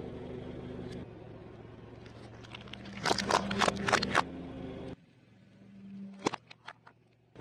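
Food being crushed, crunching and crackling from about three seconds in, over a steady engine hum. The hum cuts off abruptly near five seconds, leaving a few sharp clicks.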